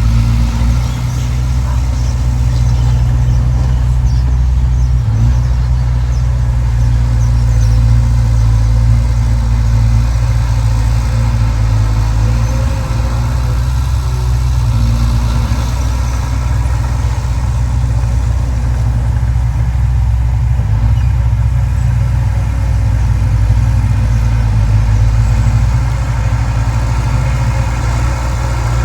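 Diesel engine of heavy earthmoving machinery running steadily with a low, even drone that barely changes in pitch or loudness.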